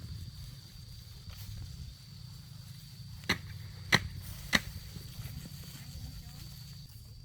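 Three sharp knocks about half a second apart, over a steady low rumble.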